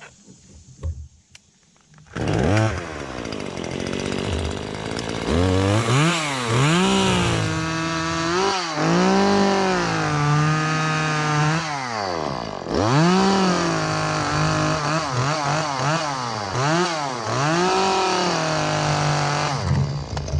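Chainsaw starting up about two seconds in, then revved up and down again and again, held at full speed for a few seconds at a time while cutting wood.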